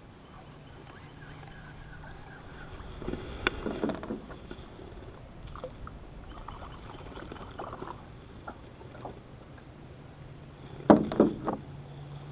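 Knocks and bumps on a small fishing boat as it is handled on the water: a cluster of them about three seconds in and a louder cluster of several near the end, with a few light clicks between, over a faint steady low hum.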